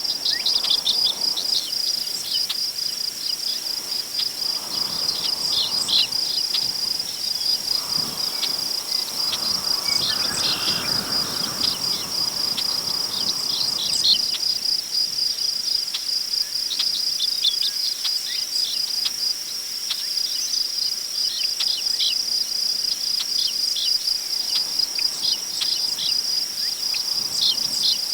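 A steady high-pitched chorus of crickets with scattered short bird chirps, over tall prairie grass rustling in the wind in soft gusts, the strongest about ten seconds in.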